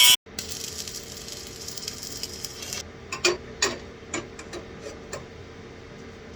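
A quick run of about eight light clicks and knocks over two seconds, starting about three seconds in, over a faint steady hiss.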